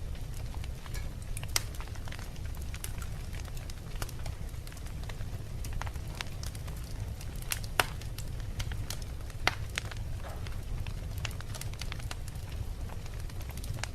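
Wood fire in a fireplace burning, the logs crackling with irregular sharp pops over a steady low rumble of the flames; the loudest pops come about a second and a half, eight and nine and a half seconds in.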